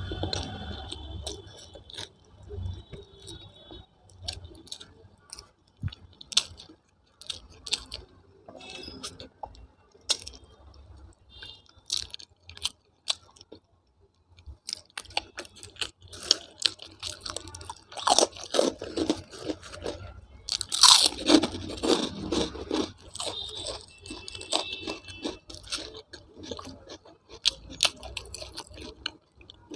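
Close-up chewing and crunching of food, with many small wet mouth clicks, growing louder and denser for a few seconds past the middle.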